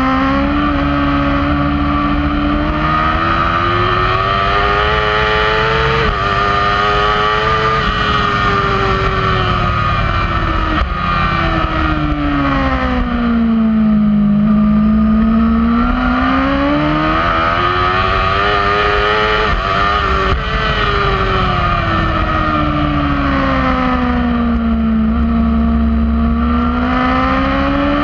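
Kawasaki superbike engine at race pace, heard from on the bike: the pitch climbs in steps through the gears, drops away twice under braking and downshifts, then climbs again as it drives out of the corners.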